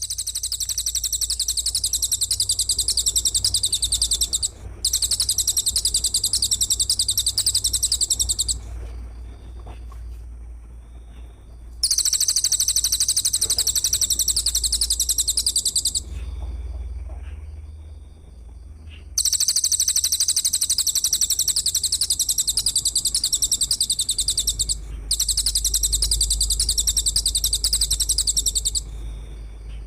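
Very high, rapid buzzing trill in long repeated bursts of about four seconds each, with short pauses between them. This is the shrill, dense song of a masteran training recording, made of tightly repeated cricket, grasshopper or cililin calls.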